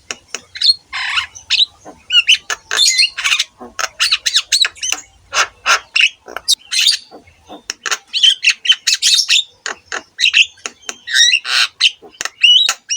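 Javan myna (jalak kebo) singing vigorously: a fast, unbroken string of harsh squawks, chatter and short whistled notes that slide up and down in pitch.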